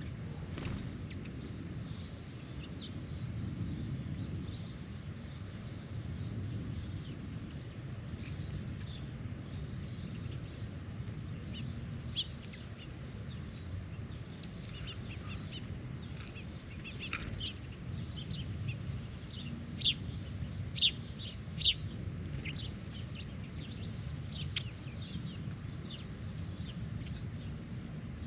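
Birds calling in short chirps and chips, busier in the middle, with three louder sharp calls a little past two-thirds of the way through, over a steady low background rumble.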